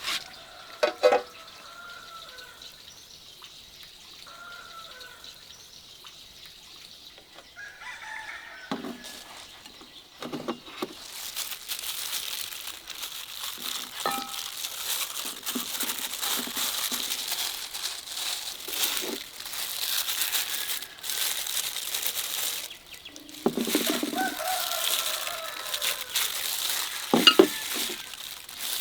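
Food sizzling in a pan, a steady hiss that starts about ten seconds in, with a few sharp utensil knocks. Chickens call in the background, and a rooster crows near the end.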